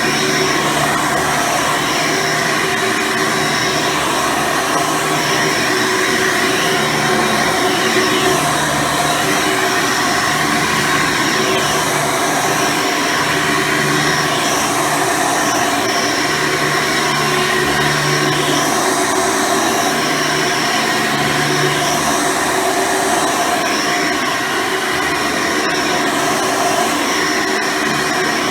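Hoover Soft & Light Supreme upright vacuum cleaner with its 12-amp motor running steadily while vacuuming, a steady whine over a dense rush of air, with a low hum that comes and goes.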